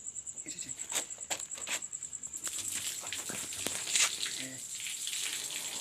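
A cricket trills steadily with a fast, high-pitched pulse, while close rustling and a few sharp clicks of handling sound over it, loudest about four seconds in.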